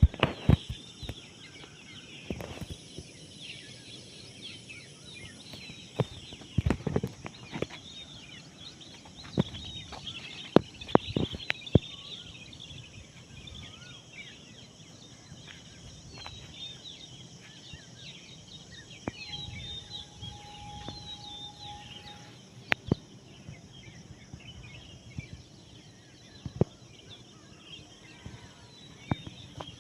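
Many small birds chirping in a dense morning chorus of short high calls, broken by scattered sharp clicks or knocks that stand out louder than the birds. Past the middle a single steady whistle-like tone holds for about three seconds.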